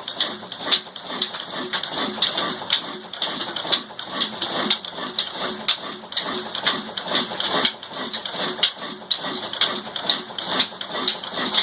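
Desi stationary diesel engine running, with a steady clatter of rapid knocks and ticks over a pulsing low chug.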